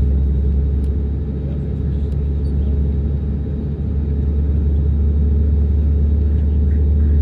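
Airliner engines and airframe giving a steady, deep rumble with a droning hum above it.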